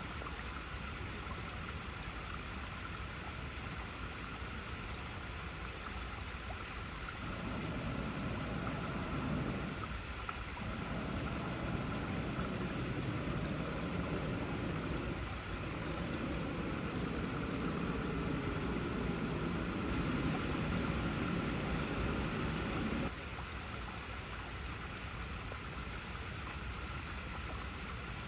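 Water flowing and splashing over rocks in a steady rush. A fuller, deeper surge comes in about seven seconds in, eases briefly, and cuts off suddenly near twenty-three seconds.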